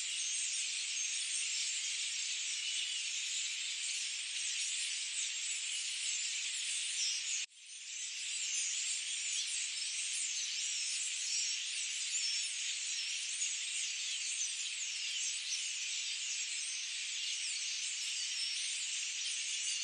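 Dense, unbroken forest chorus of high-pitched chirping and trilling calls. About seven seconds in it cuts out for an instant and fades back in, like a splice in a looped recording.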